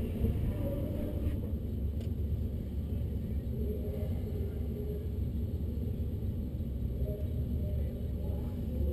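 Camaro SS's 6.2-litre V8 idling, a steady low rumble heard from inside the cabin.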